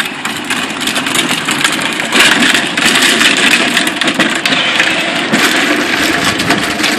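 Children's electric ride-on toy car driving: a loud, steady rattling noise full of crackles.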